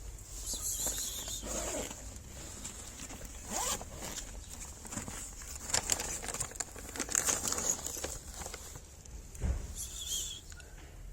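Irregular rustling, crinkling and scratching of paper or cardboard, in short uneven strokes.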